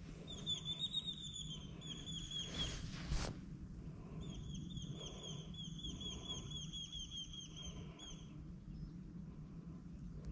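A bird calling in two fast trills of short, high, down-slurred notes, the second run longer. A brief rushing noise comes between them, and a steady low rumble runs underneath.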